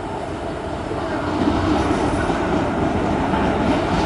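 Electric-locomotive-hauled passenger train running slowly into a station, its wheels rolling and rattling on the rails. The sound is steady and grows a little louder about a second in as it comes closer.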